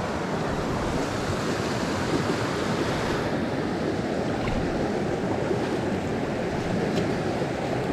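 Mountain stream water rushing, a steady noise; about three seconds in its higher hiss drops a little.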